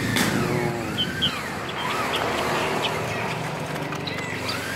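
Caged birds chirping and giving short whistled calls over steady background crowd noise.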